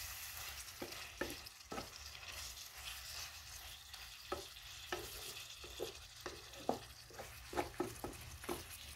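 Goat liver and red and green peppers sizzling in a frying pan on a charcoal stove while a wooden spoon stirs them. The spoon scrapes against the pan in short, irregular strokes about once a second.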